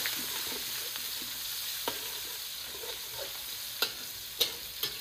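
Sliced onions and whole spices sizzling in hot oil in a wok as they are sautéed, stirred with a metal spatula. The spatula clicks sharply against the wok four times, three of them in the second half.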